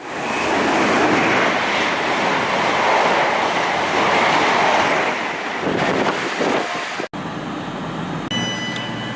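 Class 221 Super Voyager diesel train passing at speed, a loud rushing noise of engine and wheels on rail. It cuts off abruptly about seven seconds in to a quieter steady rumble of a train standing at a platform, with a short high steady tone near the end.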